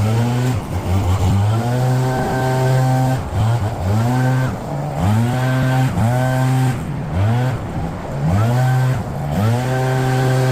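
Small two-stroke petrol engine of a handheld garden power tool running at high revs, the throttle repeatedly let off and opened again so the pitch drops and climbs back many times.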